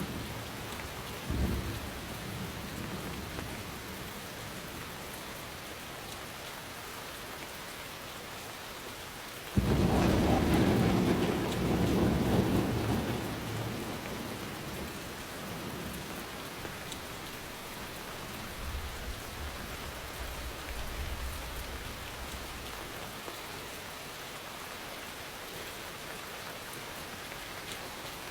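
Steady rain falling, with a sudden loud thunderclap about ten seconds in that rumbles for several seconds and fades, and a fainter low rumble of thunder later.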